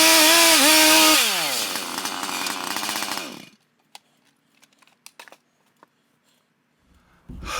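Stihl MS 880 two-stroke chainsaw in a chainsaw mill, running at high revs with a brief dip, then throttled down so the engine note falls away. It runs on for about two seconds and cuts off suddenly, leaving a few faint clicks.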